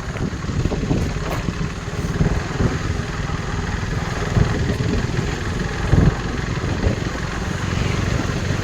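KTM RC 390's single-cylinder engine running steadily on the move, with a few brief low thumps.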